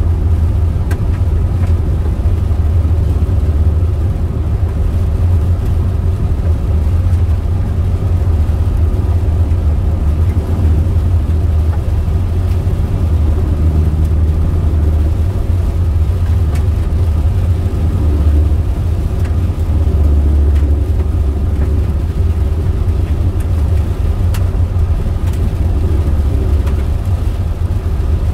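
Steady low rumble of road and engine noise inside a moving car's cabin, holding even throughout.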